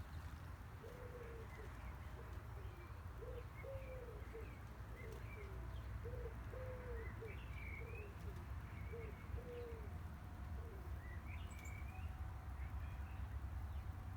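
A pigeon cooing: a run of repeated low, soft coo phrases that stops about ten seconds in, with a few faint chirps from small birds and a steady low rumble underneath.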